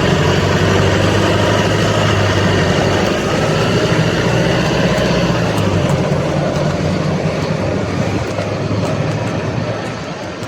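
A motor vehicle's engine running close by, a steady low hum that fades after about six seconds, over continuous street and road noise.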